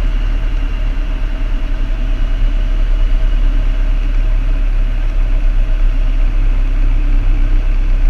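Piper Cherokee's engine and propeller running with a steady drone, heard inside the cockpit.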